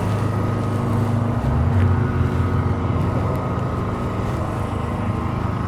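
A nearby engine idling steadily with a low drone, swelling briefly about two seconds in.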